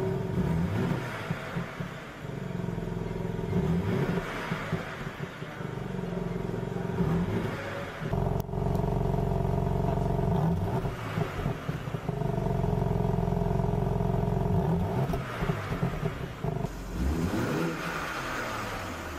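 The 2021 BMW M3 Competition's twin-turbo 3.0-litre inline-six runs at idle while stationary in park, with repeated throttle blips revving it up and letting it fall back.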